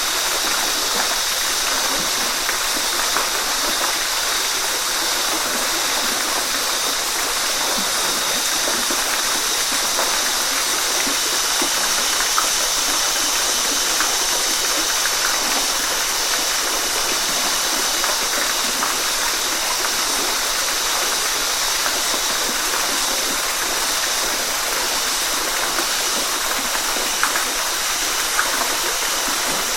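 Waterfall: a steady, even rush of falling water, with small splashes and gurgles flecked through it.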